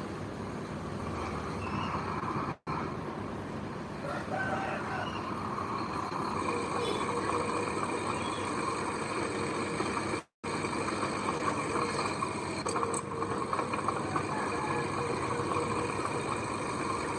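Diesel engine of heavy earthmoving machinery running steadily, cut off for an instant twice.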